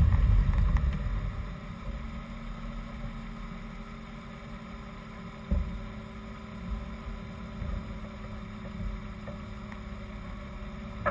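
BMW 328i straight-six engine rumbling as the car slows to a stop, then idling steadily.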